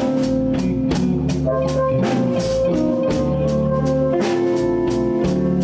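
Live blues band playing between sung lines: drum kit keeping a steady beat under bass and electric guitar, with held notes from a lead instrument.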